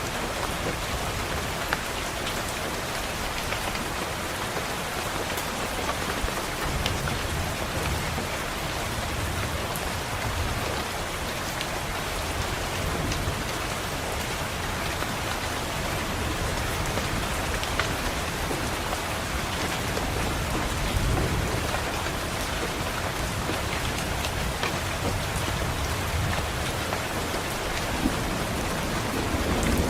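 Steady rain pattering on a window, with low thunder rumbling in and out several times.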